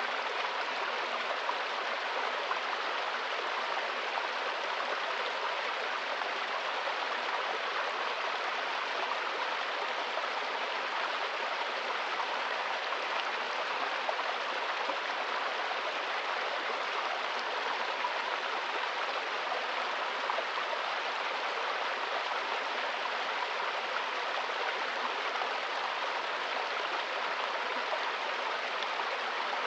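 Running water, a steady even rush with no breaks or distinct splashes.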